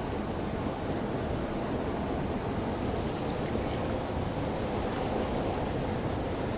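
Steady rushing noise of wind and moving river water, with no distinct events.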